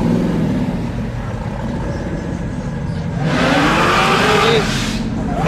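Car engine running with a low, steady rumble, revved up about three seconds in, its pitch rising for a second or so before easing off.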